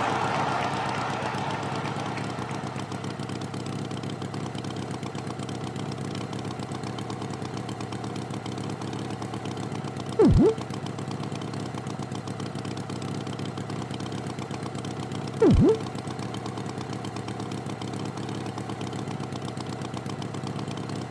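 Tractor engine idling steadily. Twice, about five seconds apart, a short loud tone cuts in, dipping and rising in pitch.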